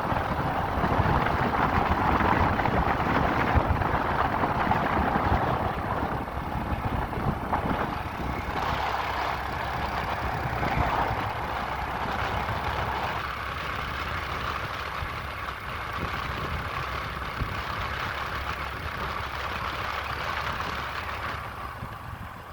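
Motorcycle riding along the road, its engine running under a steady rush of wind noise; the noise eases somewhat a little past halfway.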